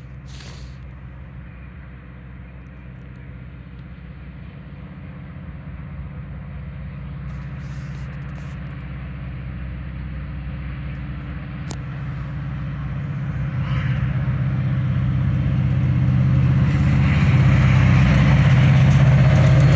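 An approaching diesel train: the locomotive's engine drones steadily and grows louder throughout. In the last few seconds the rush of the wheels on the rails joins in.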